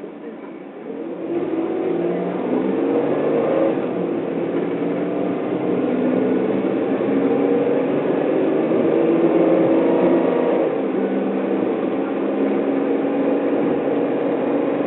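Car engine heard from inside the cabin, pulling away from a stop about a second in and accelerating along the road, its pitch climbing and dropping back a few times.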